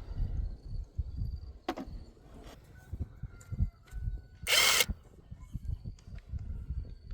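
Repair tool work: scattered clicks and knocks over a low rumble, with one short, loud burst of noise about four and a half seconds in.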